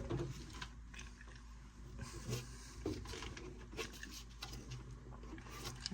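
Faint scattered clicks and light knocks of hand tools and metal parts being handled, over a low steady hum.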